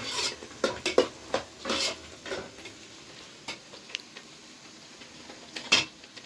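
Irregular scraping and light clinks of a hand-held tool or utensil against a hard surface: several quick strokes in the first two and a half seconds, then a few scattered clicks and one last louder scrape near the end.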